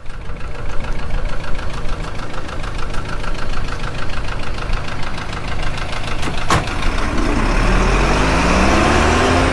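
An engine running with a fast even pulse, then rising steadily in pitch near the end as it revs up or speeds up.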